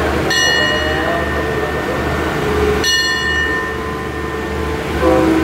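Passenger coaches of a train rolling slowly past at a station, with a steady low rumble and a sharp, ringing metallic clang about every two and a half seconds.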